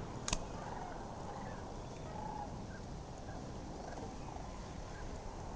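Scattered short calls from ducks and geese on the water over a steady background hiss, with one sharp click just after the start.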